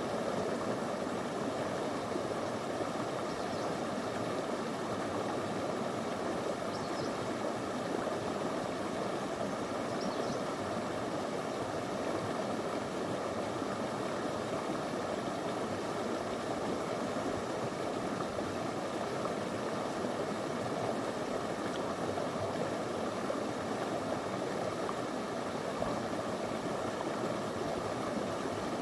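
Small river running over stones: a steady, unbroken rush of flowing water.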